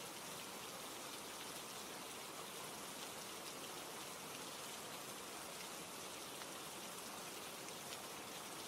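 Steady rain ambience: an even hiss of falling rain with a few faint drop ticks.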